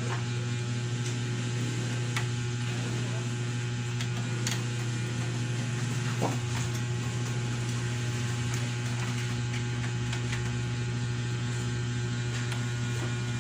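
Steady low electrical mains hum with a few faint clicks and taps of handling over it.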